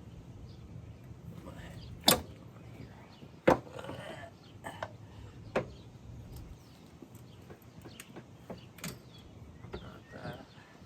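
Hand work on a car's engine bay while a strut bar is being removed: a few sharp knocks and clanks of parts and tools being handled, the two loudest about two and three and a half seconds in, with lighter clicks and rustling between.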